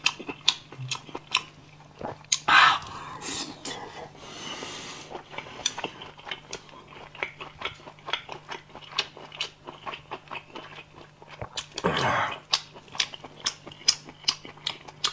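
Close-miked chewing of a mouthful of spicy stir-fried shellfish: many quick wet clicks and smacks of lips and tongue. Two louder rushing sounds come about two and a half seconds in and about twelve seconds in.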